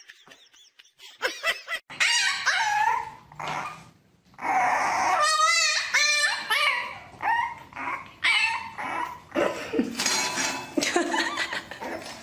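A dog vocalizing in a run of short pitched calls, whines and yips mixed with barks, some of them wavering in pitch.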